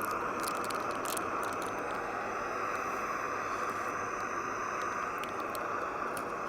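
Alpkit Brukit (Jetboil-style) gas stove burner running, a steady jet-like hiss; the flame is turned down low.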